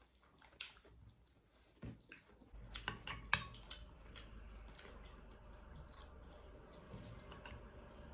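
Scattered clinks and taps of cutlery against plates during a meal, with a cluster of them about three seconds in. A low steady hum comes in about two and a half seconds in.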